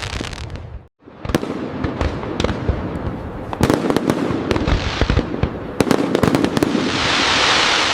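Fireworks display: a dense run of sharp bangs and cracks over continuous crackling, cutting out briefly about a second in, with a swell of crackle near the end.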